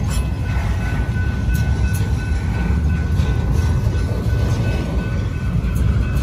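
Double-stack intermodal freight train of well cars rolling past: a steady low rumble of wheels on rail, with scattered clicks and a faint steady high tone over it.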